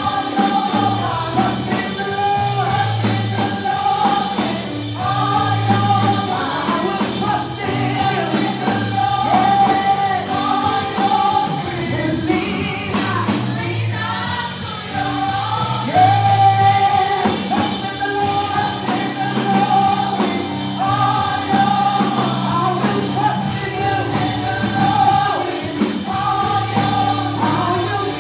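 Live gospel worship music: a choir singing with a band, bass holding a repeating pattern underneath.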